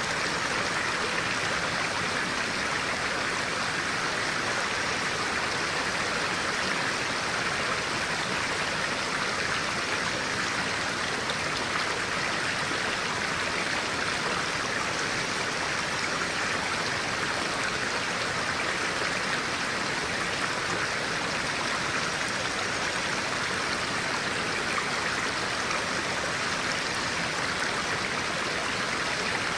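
A clear-water stream flowing, an even, unbroken rush of water with no pauses or changes.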